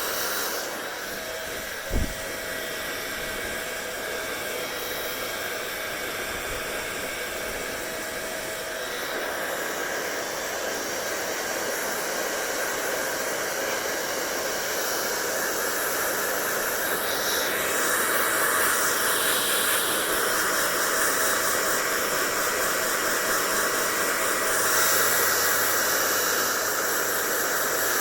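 Hair dryer running steadily: a rushing hiss of air with a faint motor whine. There is a single thump about two seconds in, and the airflow grows somewhat louder and brighter in the second half.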